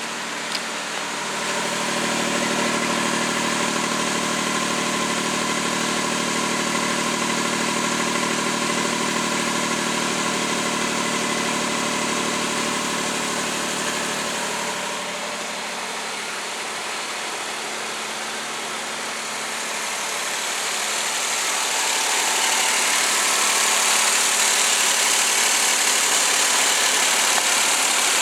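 Suzuki K6A three-cylinder 660 cc engine idling steadily. It gets louder about two seconds in, quieter around the middle, and louder again over the last third.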